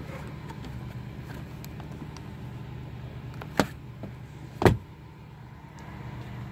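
1992 Buick Regal's engine running steadily, a low even hum. Two sharp knocks about a second apart in the middle stand out above it.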